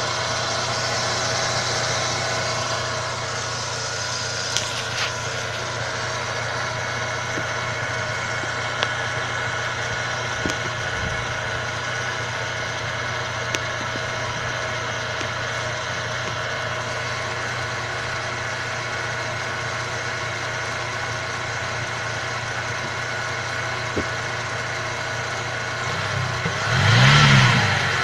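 Holden VZ Commodore's 3.6-litre V6 idling steadily, heard at the engine bay by its open pod air filter. Near the end the throttle is blipped once and the revs rise and fall.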